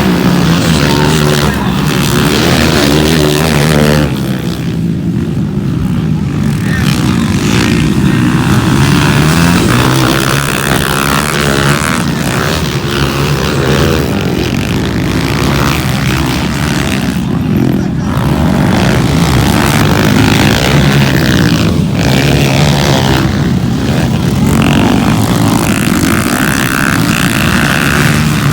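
Motocross dirt bikes racing, their engines revving up and down as riders accelerate and shift around the track, with a brief dip in loudness about four seconds in.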